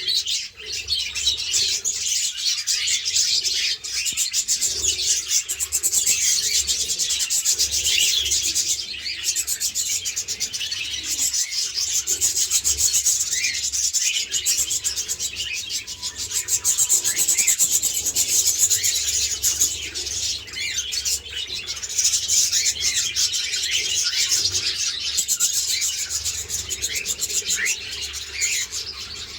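Flock of small caged parrots, budgerigars and cockatiels, chattering and chirping continuously in a dense, scratchy warble of many overlapping short calls.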